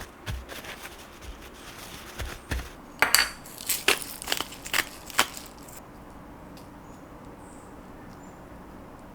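Kitchen dishes and utensils clattering: a few soft taps, then a quick run of sharp clinks and knocks about three seconds in, giving way to a quiet steady room hum.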